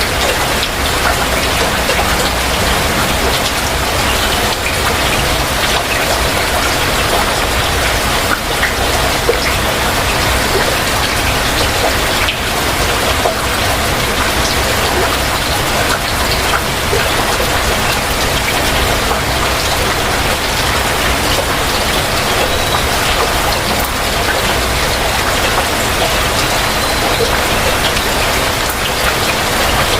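Heavy rain falling steadily: a dense, even hiss with many separate drops ticking.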